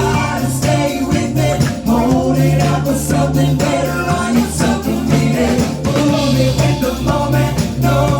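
Live band music with a steady beat and a sustained bass line.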